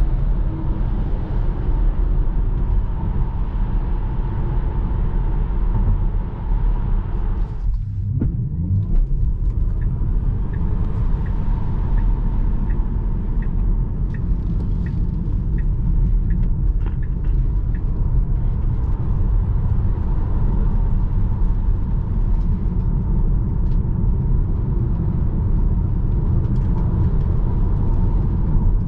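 Steady low rumble of a 2021 Tesla Model 3 Performance on the move, mostly road and tyre noise from the electric car. It breaks off briefly about eight seconds in. A few seconds later a run of light, even ticks, about two a second, lasts for several seconds.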